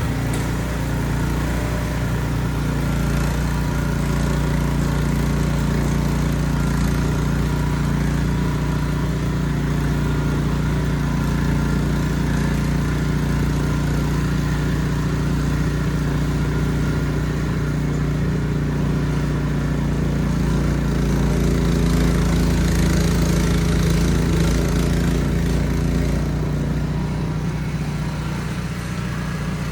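Ariens Platinum SHO 24-inch snowblower engine running steadily under load. It gets a little louder for a few seconds about two-thirds of the way through.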